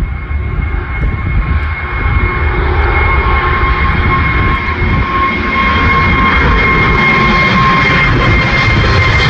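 Jet airliner's engines at takeoff power, a broad roar with a steady two-note fan whine, growing steadily louder as the aircraft comes closer.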